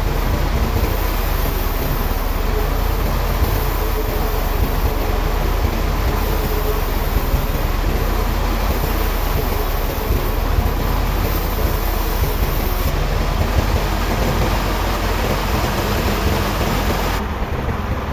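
Sawmill machinery running steadily, a loud continuous rumble and noise with no distinct strokes; the sound shifts slightly near the end.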